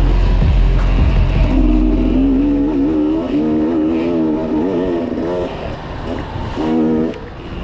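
Enduro motorcycle engine revving, its pitch rising and falling with the throttle. It drops off briefly near the end, then picks up again. The deep bass of a music track fades out in the first couple of seconds.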